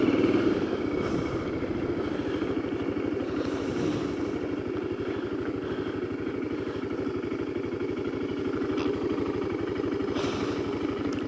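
Motorcycle engine running at a steady, low speed with an even firing pulse, a little louder in the first second before settling.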